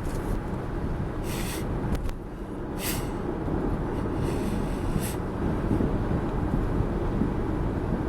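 Road and engine noise of a car driving at highway speed, heard from inside the cabin, a steady low rumble with a few brief hissing swells of wind or passing traffic.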